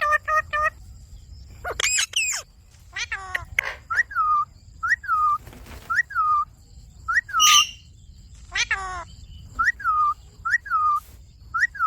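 Indian ringneck parakeet calling: a series of short whistled notes that rise and then drop, repeated every half second to a second, with a few longer warbling calls among them.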